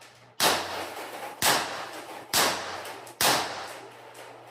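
PX-68 CO2-powered launcher firing four shots about a second apart, each a sharp crack that rings out. It is cycling properly on an Umarex CO2 cartridge, firing every shot of the string.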